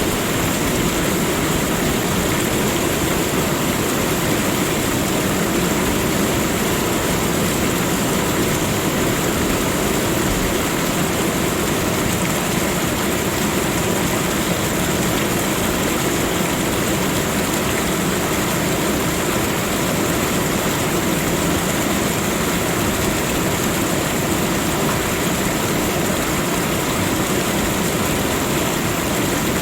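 Steady nature ambience: an even rushing noise that does not change, with a thin high hiss running through it.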